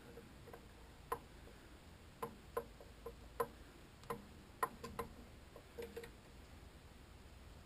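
About a dozen light clicks and taps at uneven intervals, each with a short, faint ring, like small hand tools or metal parts being picked up and set down on a bench; they stop about six seconds in.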